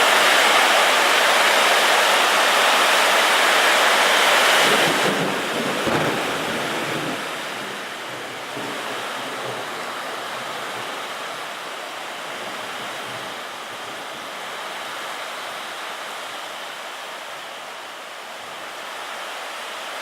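Heavy tropical downpour: a dense, steady hiss of rain with wind noise on the microphone. It is loudest for about the first five seconds, then eases to a lower steady level.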